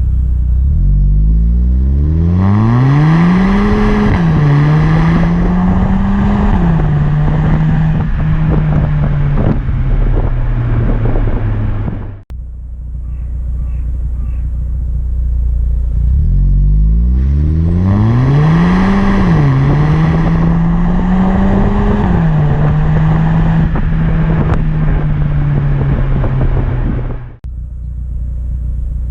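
Exhaust of a VW Golf GTE's 1.4 turbocharged four-cylinder petrol engine, running through an aftermarket downpipe with a sports cat, accelerating hard. In each of two passes the engine note climbs steeply in pitch, dips briefly at a gear change, then holds and slowly falls before cutting off suddenly.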